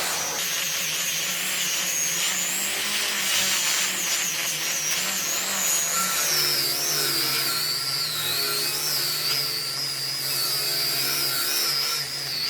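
Handheld power tool running on wood, its high motor whine wavering and sagging in pitch as it takes the load.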